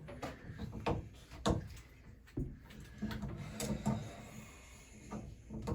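Metal channel-lock pliers clicking and scraping on the shower head's fitting as it is tightened onto the arm, with a few sharp knocks.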